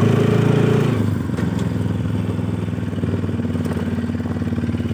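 Motorcycle engine running, louder for about the first second, then settling to a steady, even beat at a lower level.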